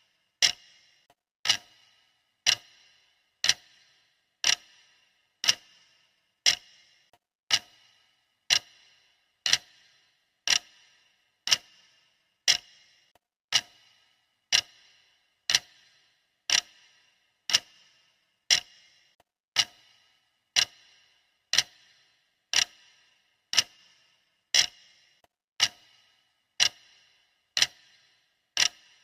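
Clock ticking sound effect: a sharp tick about once a second, each followed by a short ring, keeping an even steady beat.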